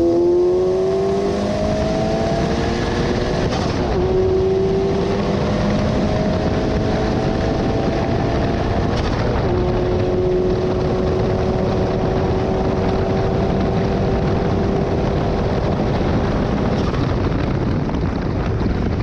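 KTM X-Bow's turbocharged Audi 2.0-litre four-cylinder engine at full throttle, rising in pitch through the gears with upshifts about four and nine seconds in. It then holds a long slow climb at top speed before easing off near the end, over a steady rush of wind in the open cockpit.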